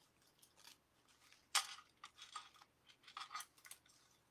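Ribbon and deco mesh rustling and crinkling as a small ribbon bow is worked into a wreath: a few short, scratchy rustles, the loudest about a second and a half in.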